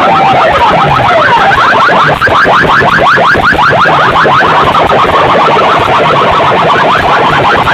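Loud electronic siren effect played through a large DJ sound-box system: a warbling alarm-like tone that breaks into fast rising chirps, about six a second, with the warbling arcs coming back near the end.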